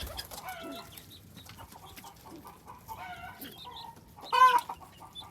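Domestic chickens clucking in a pen, a few short calls with one louder call near the end.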